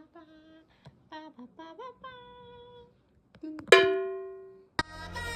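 A woman hums a fanfare-like tune in short 'ba-ba-bam' syllables. Then a single loud ringing note sounds and fades away over about a second, and music starts just before the end.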